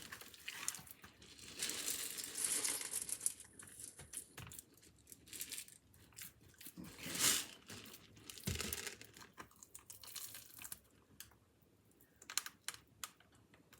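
Crinkling and rustling as something is handled, with scattered light clicks and a dull knock. The loudest rustling comes in a stretch about two seconds in and a short burst about seven seconds in.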